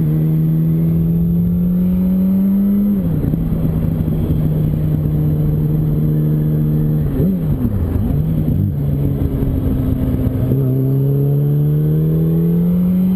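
Yamaha R1 inline-four engine under way on a twisty road. The engine note climbs slowly as the throttle is held on and falls away about three seconds in, then briefly dips and comes back up at about seven seconds. It climbs again from about ten seconds and drops near the end, with wind rush underneath throughout.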